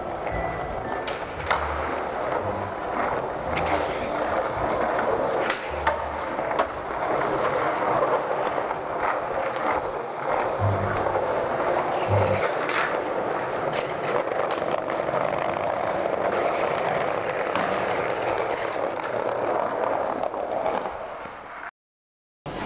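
Skateboard wheels rolling on pavement, with sharp clacks of board pops and landings now and then. The sound cuts out abruptly for a moment near the end.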